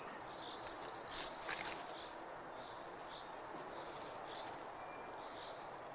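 Birds singing outdoors: a rapid high trill for about a second near the start, then short chirps repeated every half second or so over a steady background hiss.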